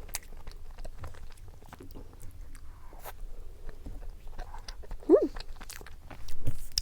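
A person eating close to the microphone: soft bites and chewing with small crisp clicks throughout, and one short voiced 'mm' about five seconds in.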